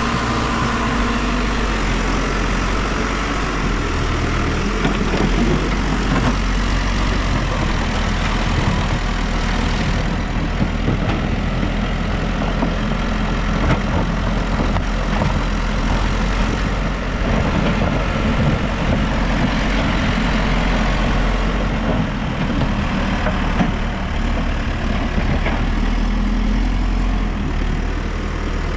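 Diesel engine of a New Holland backhoe loader running steadily, its note shifting a little now and then as the machine works.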